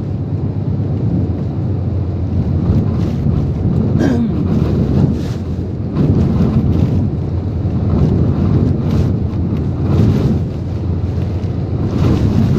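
Typhoon winds gusting hard, with wind buffeting the microphone, the roar swelling and easing every couple of seconds.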